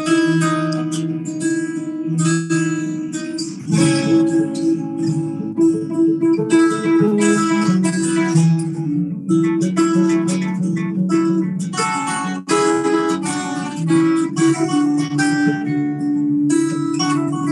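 Guitar playing a run of picked and strummed notes, with a steady low ringing tone sustained beneath them.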